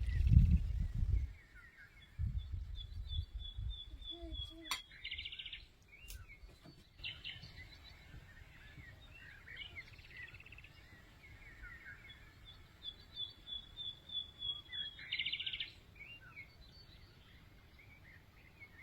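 Songbird singing the same phrase twice, a run of quick even notes ending in a short buzzy trill, with other birds chirping in between.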